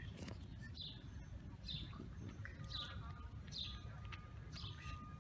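A bird calling faintly over a low steady rumble of outdoor background noise. Its call is a short falling chirp, repeated about once a second.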